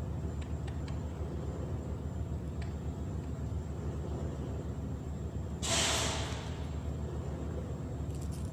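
Steady low rumble of a running engine, with a short loud hiss a little over halfway through.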